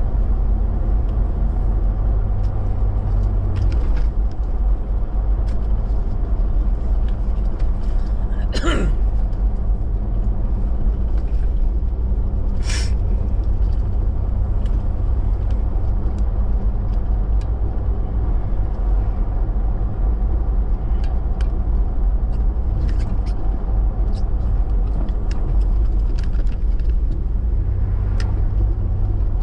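Car driving at low speed on snowy roads, with a steady engine and tyre rumble. There is a brief squeak about 9 seconds in and a short hiss about 13 seconds in.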